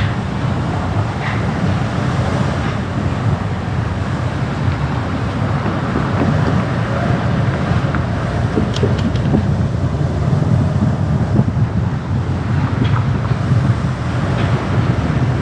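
Steady road noise of a car driving: a constant low rumble of engine and tyres, with a few faint ticks about halfway through.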